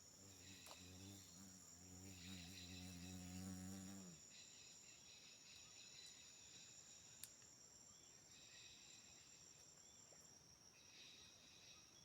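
Faint, steady chorus of rainforest insects, crickets and similar, with a continuous high whine and pulsing trills that come and go. A low droning hum runs through the first four seconds and then cuts off, and there is a single click about seven seconds in.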